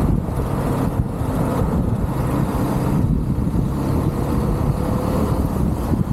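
UM Renegade Commando 125 motorcycle's 125 cc single-cylinder engine running steadily at road speed, mixed with wind noise and road rumble at a handlebar-mounted microphone.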